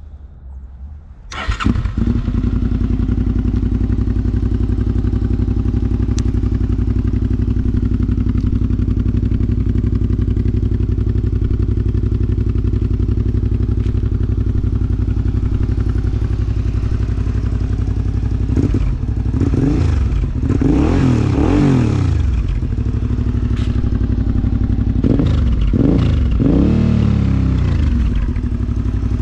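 A 2019 Suzuki V-Strom 650's V-twin engine, fitted with a Delkevic aftermarket exhaust with the baffle removed, starts about a second and a half in and settles into a steady idle. Near the end the throttle is blipped in two spells, with the revs rising and falling each time.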